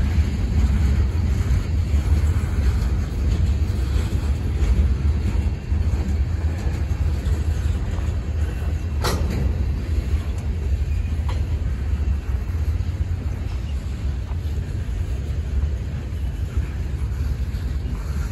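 Boxcars of a CSX local freight train rolling past, a steady low rumble of steel wheels on the rails, with one sharp clank about nine seconds in.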